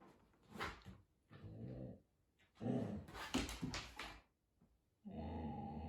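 A dog vocalizing in a few short, rough grumbles. Near the end a steady, low hum begins.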